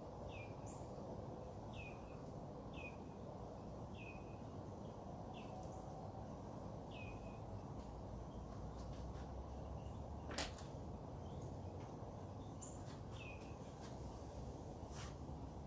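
A bird repeating a short downward call, roughly once a second for the first seven seconds and again near the end, with a few fainter high notes, over a steady low background hum. A single sharp click about ten seconds in is the loudest sound.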